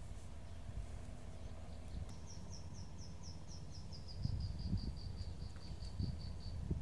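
A bird calling a run of about twenty short high notes, stepping steadily down in pitch over about four seconds, over a low rumble with a few soft thumps.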